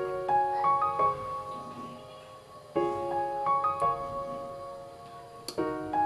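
Gentle background piano music: a soft chord struck about every three seconds, each followed by a few single notes.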